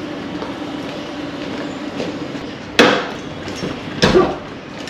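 Two sharp knocks about a second apart, from saddle bags being handled and set down over a motorcycle's rear seat, over a steady low hum.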